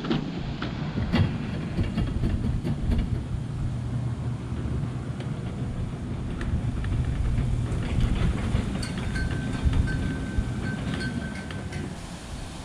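Corvette V8 running with a steady low drone, with scattered clicks and knocks over it. A faint thin steady tone sounds for a couple of seconds late on.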